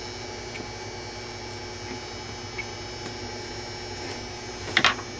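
Steady electrical hum with several constant tones over a low hiss, with a few faint ticks and a short, louder rustle a little before the end.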